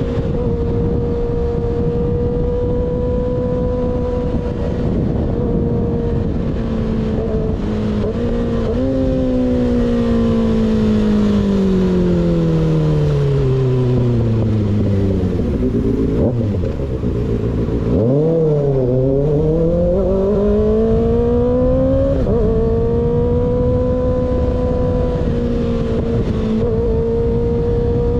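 Sport motorcycle engine running at a steady cruise, then its pitch falls smoothly for several seconds as it slows, dips, and rises again as it accelerates back to a steady pitch. Constant wind rush on the camera's microphone.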